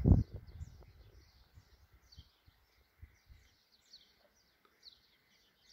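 Small birds chirping and twittering steadily, short high chirps repeating every half second or so. A brief low rumble, like wind on the microphone, at the very start.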